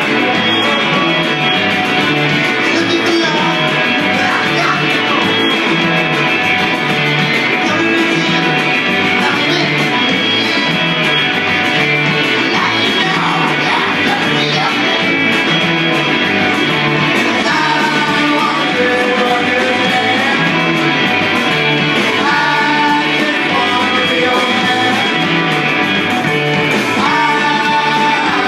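Rock band playing loud, with electric guitar, a steady beat and singing.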